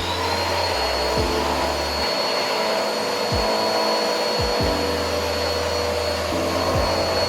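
Vacuum cleaner just switched on, its motor whine rising briefly and then running at a steady high pitch with a strong rush of air.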